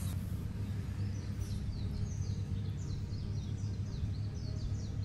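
A bird calling in a run of quick, high, falling chirps, over a steady low outdoor rumble.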